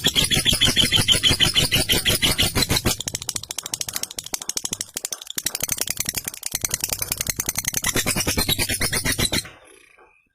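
Lovebird chattering its long "ngekek" song: a fast, unbroken run of sharp, rattling notes that stops abruptly about a second before the end.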